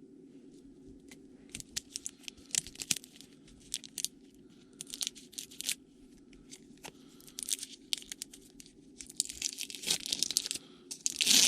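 Trading-card pack wrapper being torn open and crinkled, heard as a run of short, sharp crackles that grows denser and louder near the end.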